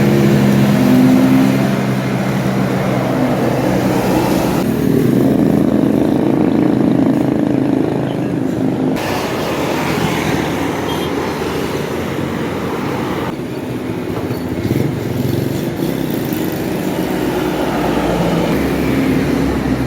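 Buses passing on a road: diesel engine noise mixed with traffic, the sound changing abruptly several times as if from separate clips joined together.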